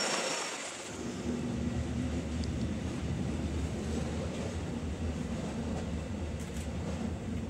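Steady low rumble of a Montreux–Oberland Bernois narrow-gauge train, heard from inside the passenger car as it rolls through the station, taking over from a fading hiss about a second in.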